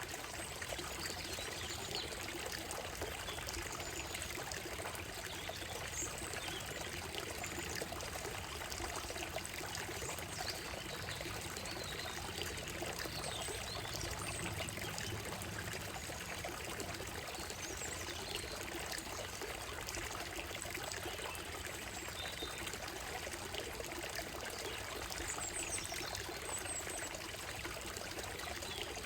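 Shallow stream running steadily over a gravel bed and stones, a constant rippling trickle. Birds give short, faint chirps and calls above it at scattered moments.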